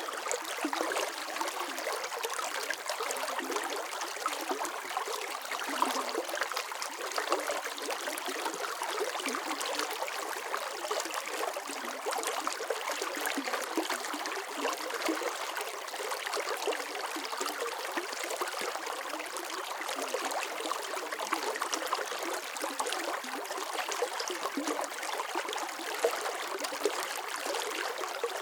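Water running and splashing steadily, with a dense patter of small splashes and trickles and no low rumble.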